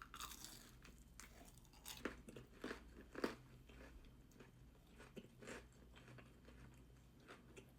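Faint crunching and chewing as a person bites into and eats a fried chicken tender, with a few louder crunches between about two and three and a half seconds in.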